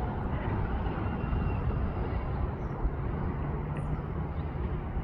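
Outdoor field ambience: a steady low rumble, with a few faint, short high calls or chirps scattered through it.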